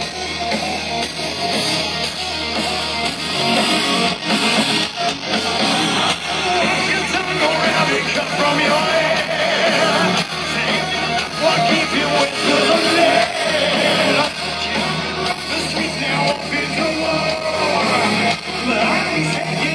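Heavy metal band playing live, with electric guitars and a singer's voice over the music, loud and continuous.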